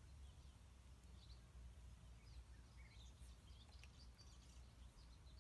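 Near silence: faint outdoor ambience with a low rumble and small birds chirping in snatches from about a second in, and a single faint click near the end.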